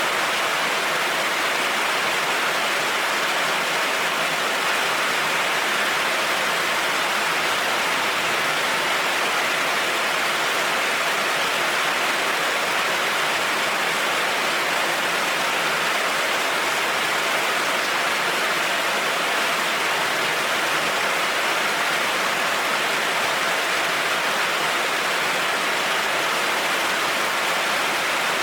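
Heavy rain falling steadily on a road, an even, unbroken hiss.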